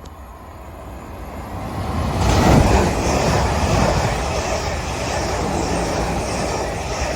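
Two coupled Class 444 electric multiple units passing through the station at speed without stopping. A rushing rumble of wheels and air builds up, is loudest about two and a half seconds in, then holds steady as the carriages go by.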